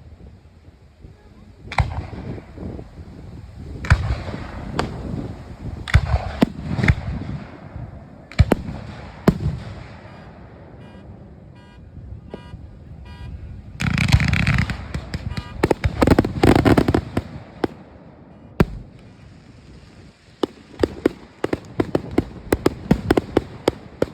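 Aerial fireworks bursting: single sharp booms every second or so, then a dense, loud salvo of bursts and crackle about halfway through, and a rapid run of crackling reports near the end.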